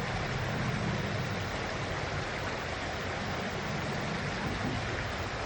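Stream water flowing and splashing over rocks, a steady rushing.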